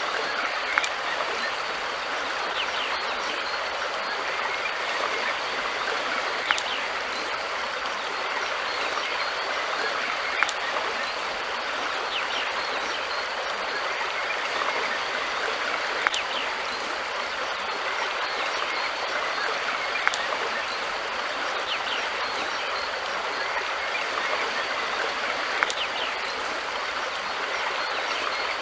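River water flowing steadily in an even rush, with a few brief sharp clicks a few seconds apart.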